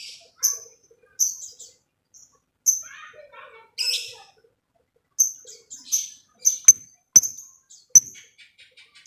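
Lovebird calling: a string of short, sharp, high-pitched chirps at uneven spacing, with a quick run of short ticks near the end.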